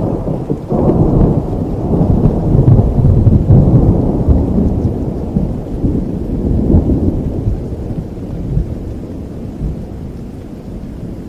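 A long roll of thunder over falling rain: it breaks in sharply about a second in, is loudest for the next few seconds, then slowly dies away.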